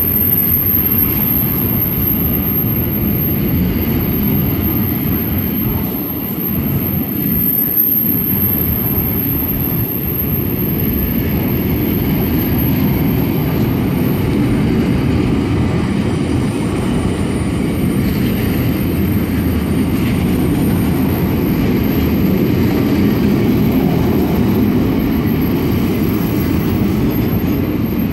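Long freight train rolling past close by: a loud, steady rumble of wheels on the rails.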